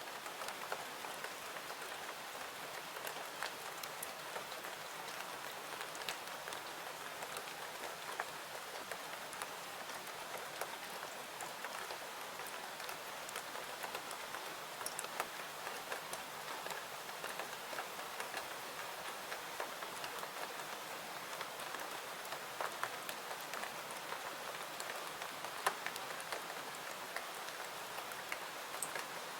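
Steady rain falling, an even hiss with many small sharp clicks scattered through it.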